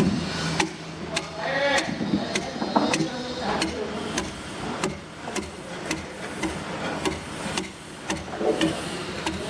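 Repeated sharp knocks and taps at an irregular pace, with people talking faintly in the background.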